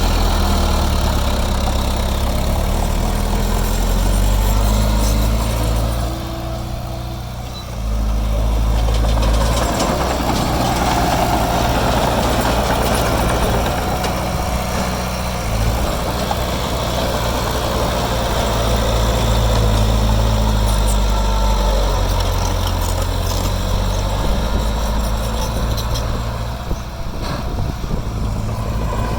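Heavy diesel engine of earthmoving machinery running. Its low note shifts as it works, with a brief drop in loudness about six to eight seconds in.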